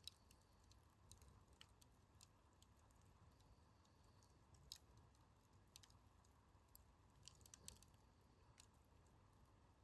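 Wood campfire in a fire stand crackling faintly: scattered, irregular sharp snaps and pops over a low steady hiss.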